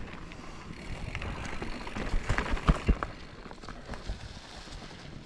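Mountain bike rolling over rough, rooty trail: tyre noise with scattered clicks and rattles, and a few sharp clunks between about two and three seconds in as the bike knocks over roots or rocks.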